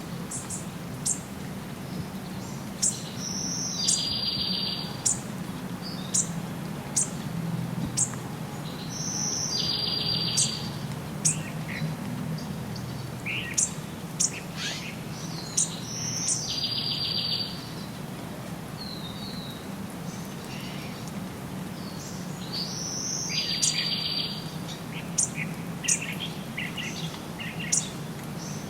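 Songbirds chirping and singing, with many short sharp chirps and a trilled phrase that comes back about every six or seven seconds, over a steady low hum.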